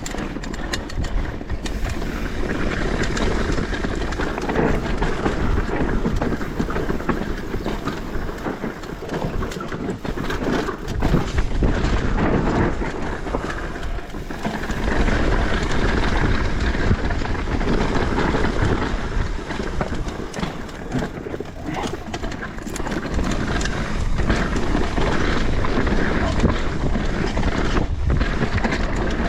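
Mountain bike ridden fast down a dirt trail: tyres running over rough ground with the bike rattling and knocking over bumps, and wind on the microphone.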